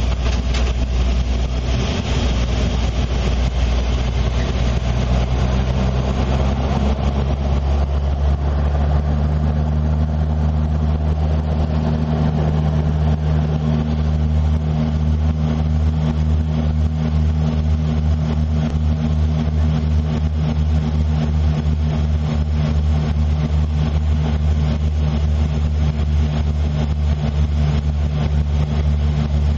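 Airliner cabin noise on final approach with the landing gear down: a steady, loud engine drone with a low hum that changes pitch about six to twelve seconds in and then holds steady.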